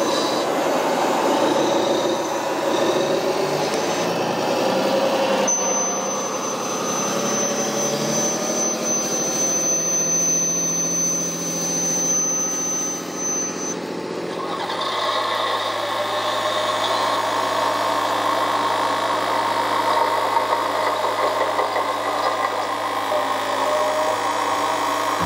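A motor running steadily, its note changing about fifteen seconds in.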